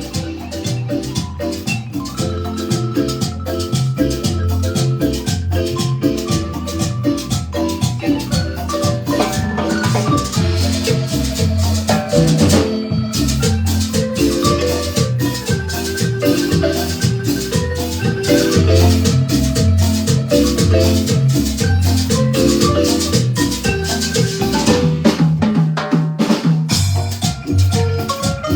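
Marimba band playing a dance tune: many mallet-struck notes over a steady bass beat, with a shaker or rattle keeping time.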